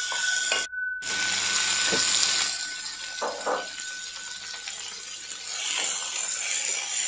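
Goat mince frying on high heat in a kadai, sizzling as raw goat liver pieces go in, with a wooden spatula stirring against the pan. The sizzle is loudest in the second or so after the liver goes in, then settles lower.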